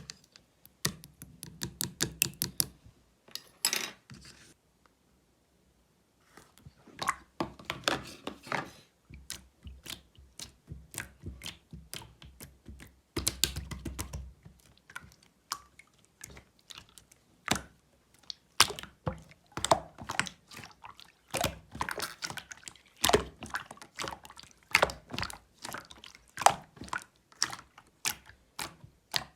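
Slime squished and pressed by hand: a dense, irregular run of sticky clicks, crackles and small pops. There is a short stretch of quiet about four to six seconds in.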